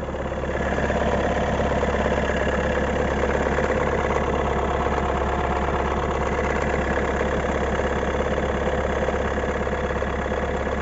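Renault 1.5 dCi K9K turbodiesel running cold, getting louder about a second in, with an extraneous noise from the right side of the engine bay. It is the sign of a failing crankshaft damper pulley and is heard only on cold starts in frost, for the first 3 to 5 minutes until the engine warms up.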